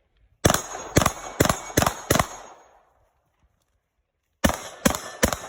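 Five gunshots fired in steady succession, about two a second, then after a pause of about two seconds a second string of shots begins near the end, three of them quick and evenly spaced.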